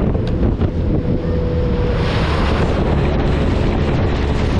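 Heavy wind buffeting the microphone over a vehicle engine running steadily, with a louder rush of noise about two seconds in.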